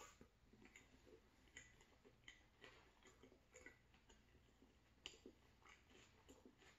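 A bite into a soft taco, then close-miked chewing: soft, irregular wet mouth clicks, a few a second, with a sharper click about five seconds in.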